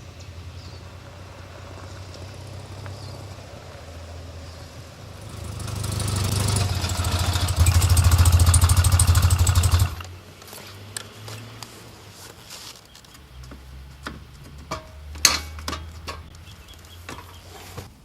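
Motorcycle engine running at a low idle, growing louder for a few seconds, then switched off abruptly about ten seconds in. Scattered clicks and knocks follow.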